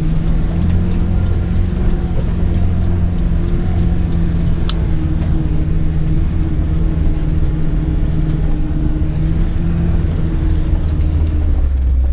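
UAZ-452 'Bukhanka' van's engine running steadily in low-range four-wheel drive, heard from inside the cab, with a single sharp click about four and a half seconds in.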